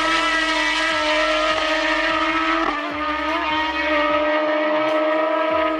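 Racing motorcycle engine running at high, nearly steady revs, with a brief wobble in pitch about halfway through.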